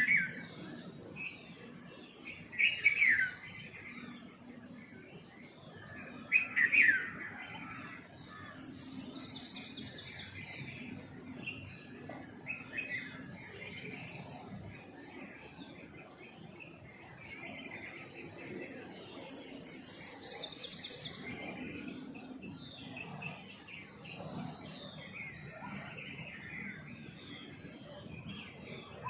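Several birds chirping and calling, overlapping, in a morning chorus. The loudest are two falling calls about 3 and 6 seconds in, and rapid trilled runs of notes come around 9 and 20 seconds in.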